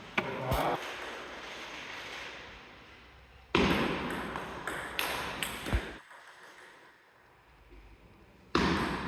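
Table tennis ball clicking off the rackets and the table during a rally, sharp ticks a few tenths of a second apart over hall background noise.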